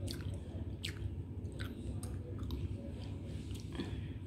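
Someone chewing and eating, with a few soft wet smacks and clicks over a steady low hum.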